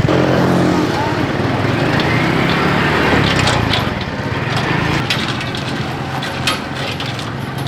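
A small engine running with a fast, even pulse, loudest at first and easing off after about four seconds, with scattered sharp clicks and knocks in the second half.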